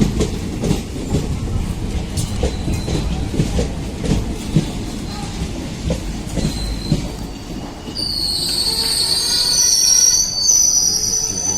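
Train coach wheels rolling past on the curve, with a rumble and repeated clicks over rail joints. About eight seconds in, a high-pitched, wavering wheel squeal sets in as the wheels grind around the curve.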